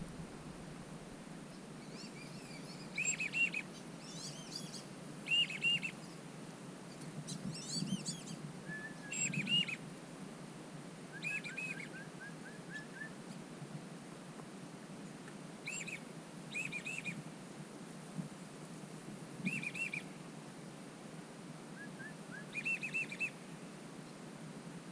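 Whistling ducks calling: short bursts of two to four whistled notes, about eight times, a couple of seconds apart, with some higher thin chirps among them.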